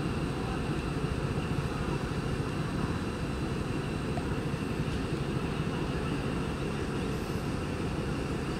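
Steady low rumble of diesel multiple-unit (DEMU) trains: a DEMU approaching slowly while another train stands at the platform, with no horn or sudden sounds.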